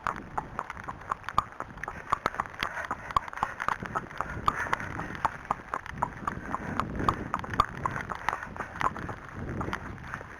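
An Arabian horse's hooves striking firm ground in a steady, even beat of about three to four hoofbeats a second.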